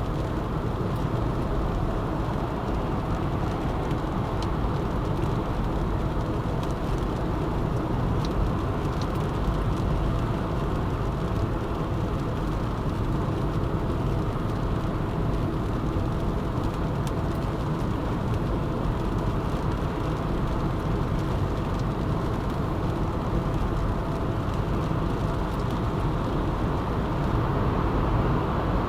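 A moving car's steady road and engine noise, an even rumble with no change in pace.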